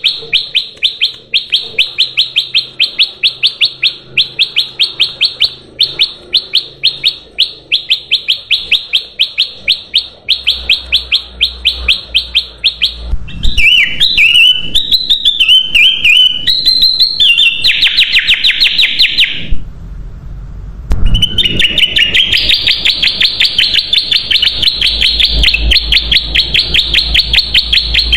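Kutilang emas song: long runs of fast, evenly repeated high chirps, several a second. Around the middle comes a more varied warbling phrase and a brief pause, then the rapid chirping resumes.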